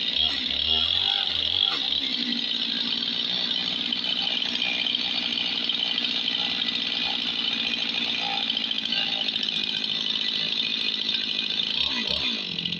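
Gas chainsaw cutting lengthwise through a cedar log, running steadily under load with a hiss from the chain in the wood; the engine note shifts briefly near the start and again near the end.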